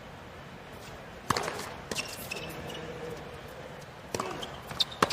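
Tennis ball knocks on a hard court: one sharp pop a little over a second in, then a few lighter ones, and two more close together near the end, over a faint, even murmur of the stadium crowd.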